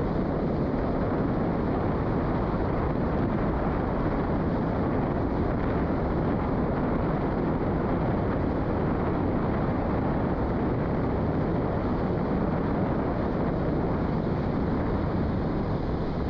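Truck driving in four-wheel drive over rough, wet ground: a steady rumble of engine and tyres with no changes in pace.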